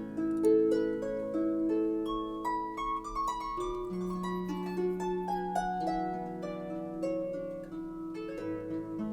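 Solo harp music: a slow, gentle melody of plucked notes over sustained low bass notes.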